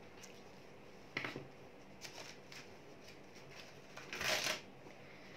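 Faint handling of a pen and small paper notepad: a light click about a second in and a few soft ticks, then a short ragged rasp of a sheet being torn off the notepad about four seconds in.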